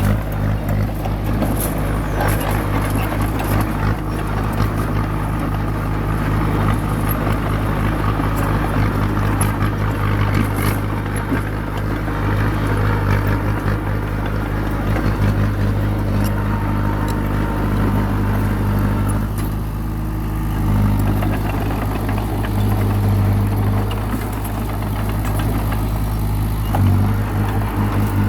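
Komatsu crawler bulldozer's diesel engine running steadily under load while pushing soil, with frequent short metallic clanks over it.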